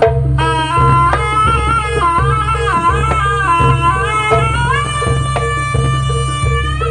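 Live jaranan ensemble music: drums and gong-like percussion keep a steady rhythm under a high, bending melody line that holds one long note near the end.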